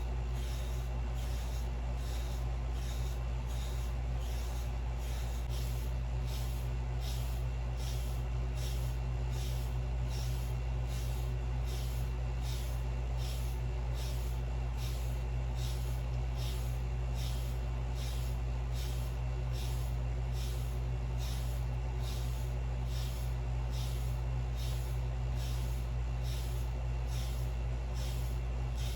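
Medium-soft wave brush stroking over short waved hair, a rhythmic scratchy swish of about one and a half strokes a second, a light session to lift hair that was laid down under a durag. A steady low hum runs underneath.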